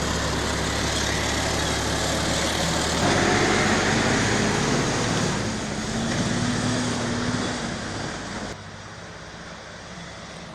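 Heavy vehicle engine running, with a slow rise in pitch around six seconds in. The sound changes abruptly about three seconds in and again near the end, where it turns much quieter.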